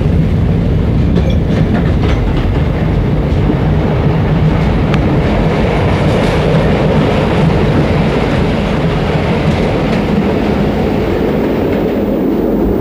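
Train running along the track, a steady rumble.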